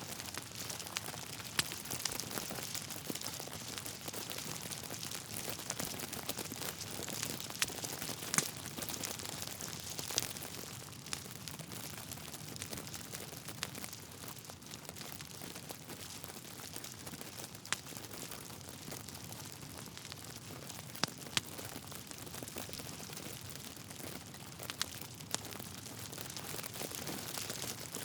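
Wood fire in a fireplace burning with a steady hiss and irregular crackles from the logs, several sharp pops standing out.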